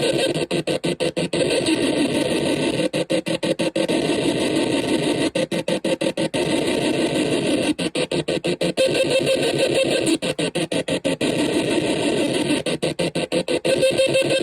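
OM-BOT Psychic Cell experimental sound machine putting out a dense, harsh electronic noise with a steady droning band underneath. The sound is chopped by rapid stuttering cut-outs that come in clusters every two to three seconds.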